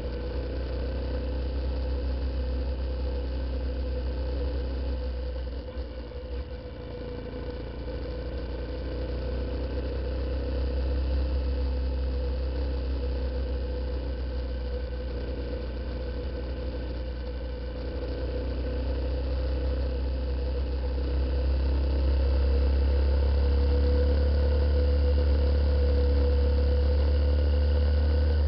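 Honda CBF125 single-cylinder four-stroke motorcycle engine running at a steady cruising pace, heard from a camera mounted on the moving bike, with deep wind rumble on the microphone that grows louder in the last several seconds.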